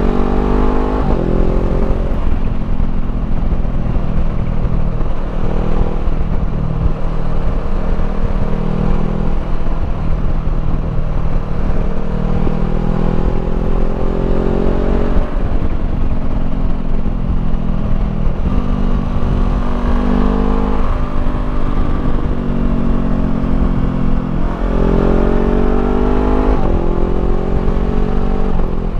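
Honda CBR500R parallel-twin engine through a Termignoni slip-on exhaust, running under way with a steady rush of wind and road noise. Its pitch climbs as it accelerates a few times and drops back in between.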